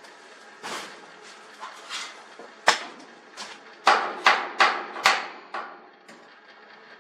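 A series of sharp knocks and clanks on garage door hardware as work starts on the top roller, with a quick run of four strikes about half a second apart near the middle.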